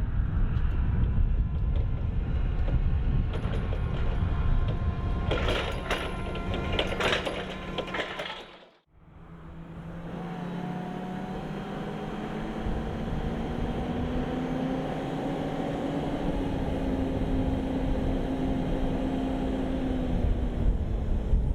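The Jungheinrich TFG 320s LPG forklift's Volkswagen engine running, with clattering and rattling of its mechanism for a few seconds. After a brief break near the middle, a whine rises in pitch and then holds steady over the engine.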